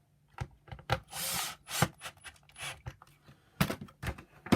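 Plastic housing parts of a vacuum power nozzle being handled and fitted: a string of sharp clicks and knocks, with a brief scrape about a second in.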